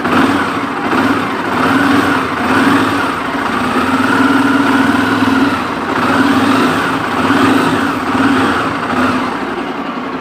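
Honda CB300's single-cylinder engine running, its note rising and falling about once a second, with the intermittent gritty, sand-like noise inside the engine that the owner is trying to trace; a new cam chain and tensioner have not cured it.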